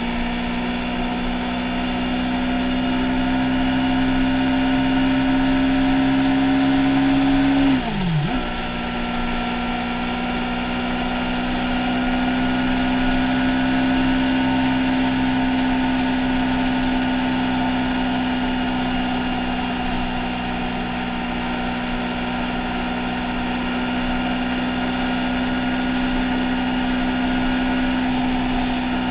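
Motorbike engine running at a steady pace, heard close up from the handlebars. About eight seconds in, the revs drop sharply and come straight back up.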